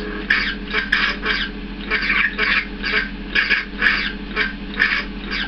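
Lightsaber sound-font clash effects from an Ultra Sabers Obsidian sound board: a dozen or so short, buzzy clash bursts, two or three a second, over the saber's steady hum.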